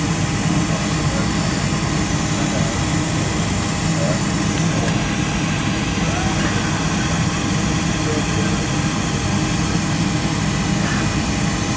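Steady noise of a Boeing 737-300 airliner cabin at the gate, an even rush with a low hum and a faint steady tone that does not change, with faint voices murmuring underneath.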